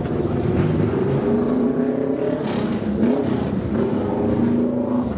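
Custom kaido racer car engines revving through the exhaust, the pitch rising and falling several times.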